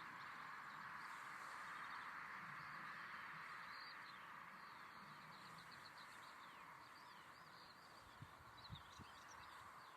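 Small birds chirping faintly in quick, short calls over a steady hiss of background noise, with a few soft knocks near the end.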